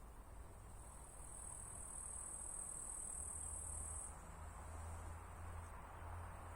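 Insects trilling in a steady, high-pitched drone, loudest between about one and four seconds in, over a faint low rumble.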